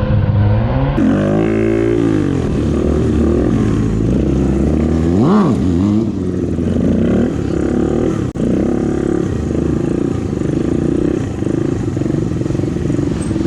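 Sportbike engine revving up and down repeatedly during stunt riding, with one sharp rev that rises and drops about five seconds in.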